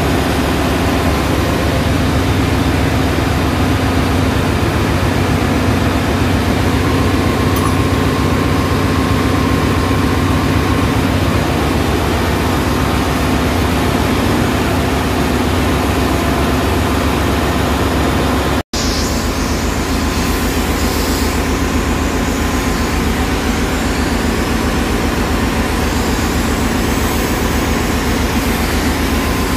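Ship's engine room machinery running with a loud, steady, even drone and a low hum, with no change in speed. It drops out for a split second about two-thirds of the way through, then goes on as before.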